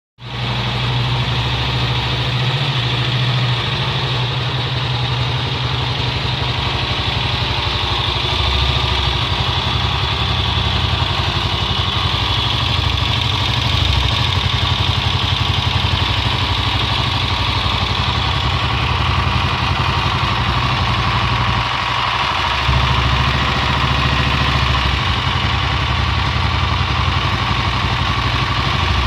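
Honda XLR single-cylinder motorcycle engine running steadily at idle, with a strange noise from the engine that the owner wants to trace.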